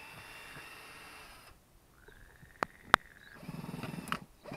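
Honeybees buzzing at an open hive, with two sharp clicks from the hive parts being handled a little under three seconds in, then a rougher rattling sound near the end.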